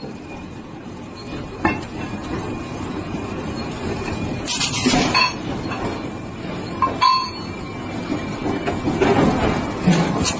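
Steady mechanical noise with about five scattered metallic clinks and knocks of heavy steel parts.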